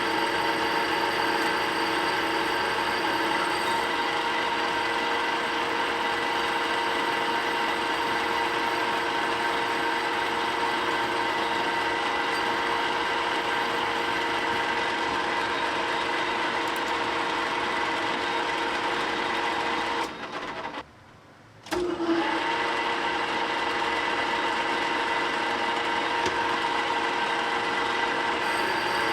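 Metal-working machine tool running steadily while machining a steel forklift rim, a constant motor whine over a cutting hiss. About two-thirds of the way through it cuts out for a second or so, then resumes at the same pitch.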